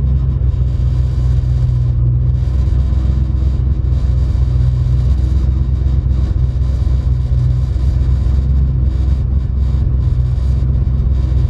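Pickup truck driving at a steady pace, a constant low engine and road rumble heard from inside the cab.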